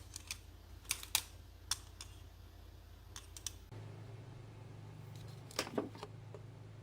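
Scattered light clicks and taps, a few at a time with gaps between, over a faint low hum that shifts slightly higher a little over halfway through.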